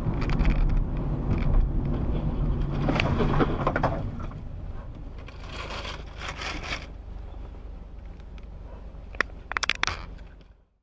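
Vehicle noise: a heavy low rumble with scraping for the first few seconds, settling quieter, then a few sharp knocks about nine to ten seconds in before the sound cuts off suddenly.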